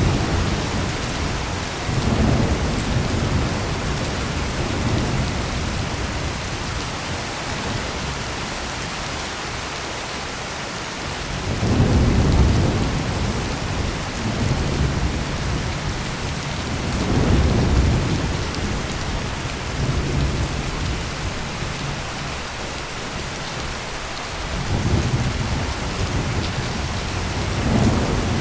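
Heavy rain pouring steadily, with low rolling thunder that swells and fades several times, loudest about twelve seconds in.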